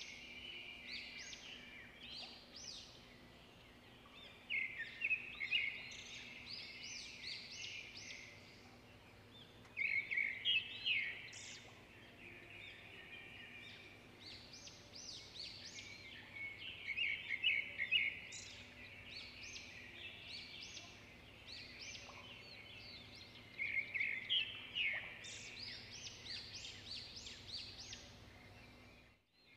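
A songbird singing, rapid chirping phrases that come in bouts every few seconds, over a faint steady hum.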